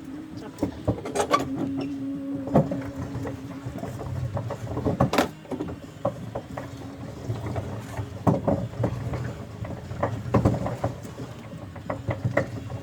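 Small hand-driven boat under way: irregular knocks and water splashes from the paddling over a low rumble. A steady hum runs through the first few seconds.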